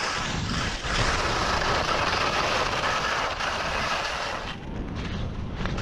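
Skis sliding and hissing down the snow while skiing, with a steady rush of wind on the microphone that eases a little near the end.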